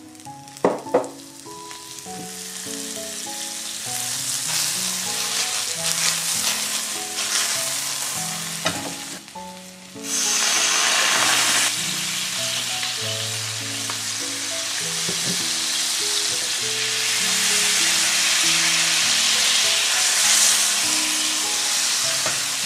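Carrot patties frying in melting butter in a nonstick pan, the sizzle building gradually. About ten seconds in, mirin and soy sauce hit the hot pan and it breaks into a loud, steady sizzle as the sauce bubbles. Two sharp clicks near the start.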